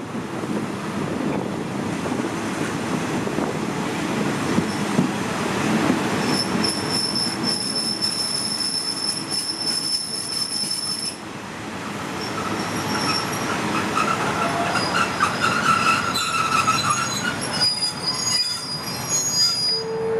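Commuter train running on the rails with a steady rumbling clatter, joined by high-pitched wheel and brake squeal: one steady high squeal from about six to eleven seconds in, then several shifting squealing tones in the last seconds as the train slows into a station.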